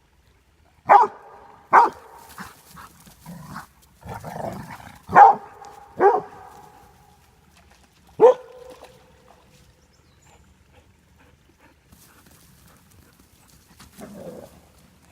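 Dogs barking while playing: about five sharp, loud barks in the first nine seconds, with softer, lower sounds between them.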